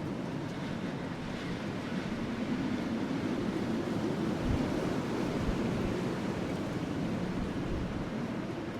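Wind blowing steadily over a burning wood fire, heard as an even rushing sound with few distinct crackles.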